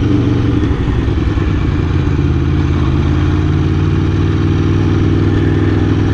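Aprilia Tuono V4 1100's V4 engine running at steady, nearly unchanging revs.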